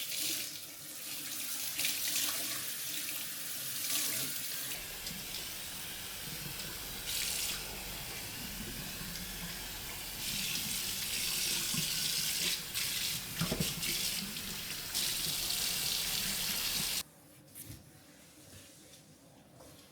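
Kitchen tap running into a sink while things are rinsed under it, with a few knocks. The water is shut off abruptly near the end, leaving faint clicks.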